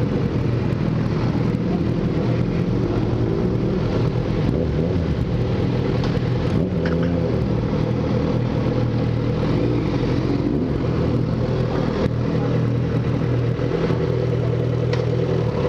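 Motorcycle engine running at a steady pitch, held throughout.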